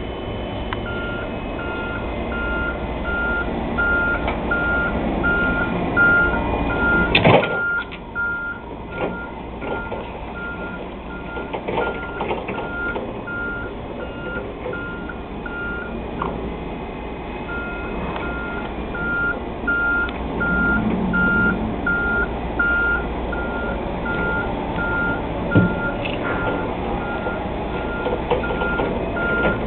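Yale reach truck's travel alarm beeping steadily about twice a second as the truck moves, stopping for a second or two past the middle and then starting again. There is a sharp clunk about seven seconds in, over a steady machine noise.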